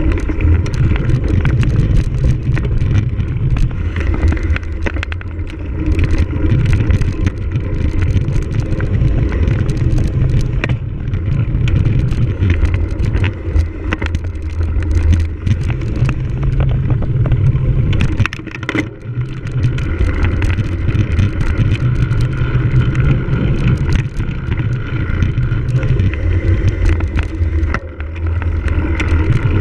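A cyclocross bike being raced over rough ground: heavy wind rumble on the microphone with frequent sharp rattles and clicks from the bike, easing briefly a little after halfway.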